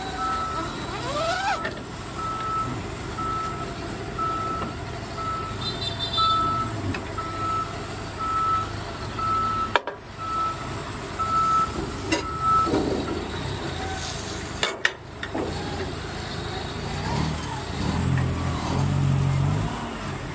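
Vehicle backup alarm beeping at an even pace, about five beeps every four seconds, over a running engine. The beeping stops about 13 seconds in.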